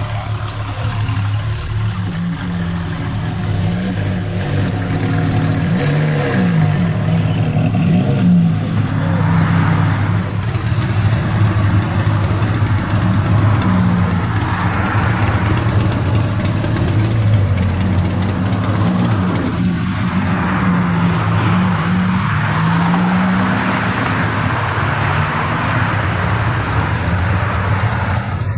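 Sports car engines running at low revs, with a few short rises in engine speed.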